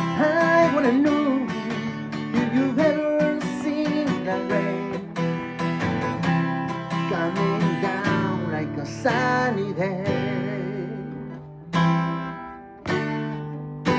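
Acoustic guitar being strummed, with a voice humming a wavering wordless melody over it in places. About ten seconds in the strumming stops, and two single strummed chords ring out and die away near the end.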